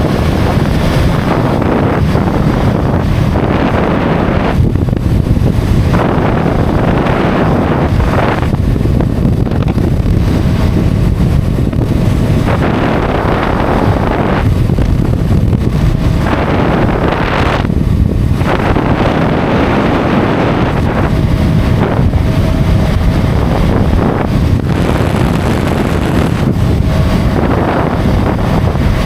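Loud wind rushing over the microphone of a motorcycle at highway speed, surging in gusts every few seconds, over the bike's engine and road noise.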